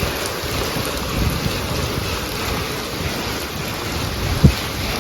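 Heavy rain pouring steadily, with a low rumble underneath, and a single dull thump near the end.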